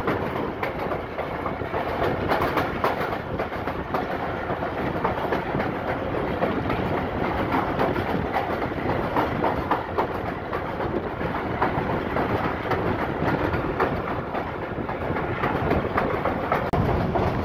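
Passenger train running on a branch-line track at about 80 km/h: a steady rumble of the coach's wheels on the rails, with clickety-clack and many short clicks as the wheels pass rail joints.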